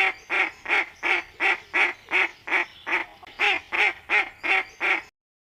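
Duck quacking in a steady, evenly spaced series of about three quacks a second, stopping just before the end.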